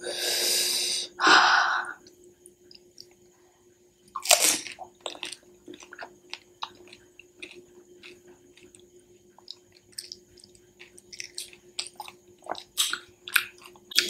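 A whole pani puri being chewed close to the microphone: the crisp fried shell crunches and the filling squishes wetly in many short, irregular crunches. Two loud breathy bursts come in the first two seconds as it goes into the mouth.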